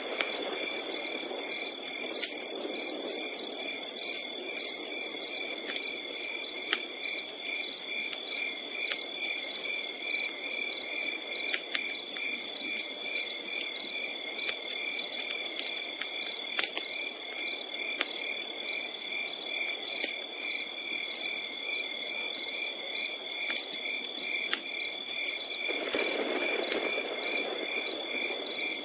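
Crickets chirping in an even, rhythmic pulse over a continuous high insect trill, with scattered sharp crackles and a soft hiss from a campfire burning.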